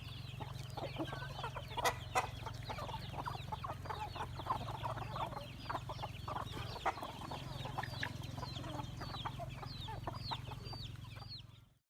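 A flock of chickens clucking and calling, many short overlapping calls at once, over a steady low hum. It all cuts off suddenly near the end.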